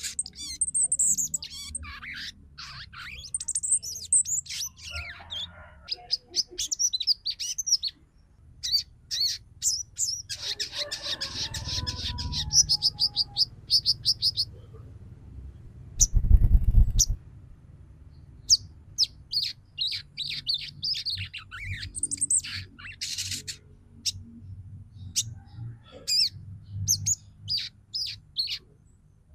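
Female sogon calling in quick, high chirps and rapid twittering runs, the 'ngeriwik' call that bird keepers use to stir males into song. There is a short, loud low rumble about halfway through.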